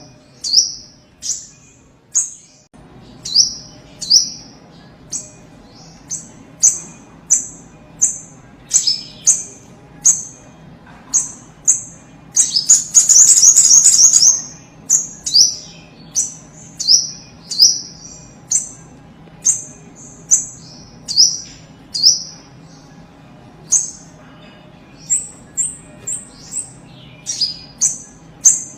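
Little spiderhunter (sogok ontong) calling: a long run of sharp, high, short notes, each falling in pitch, about one to two a second. About halfway through comes a loud, rapid chattering burst lasting a second or two, then the single notes go on.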